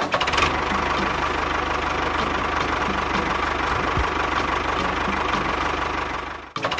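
A small motor running steadily with a mechanical whirr, cutting out briefly near the end and starting again.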